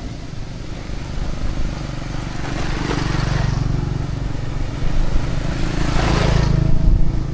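Steady low rumble with two louder swells of noise, about two and a half and six seconds in, from motor vehicles passing on a village road.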